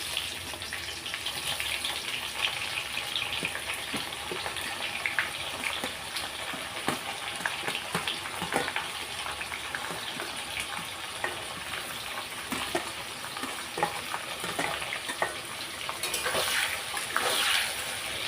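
Onions frying in hot oil in a kadhai, with a steady sizzle and crackle and scattered clicks from a spoon stirring them.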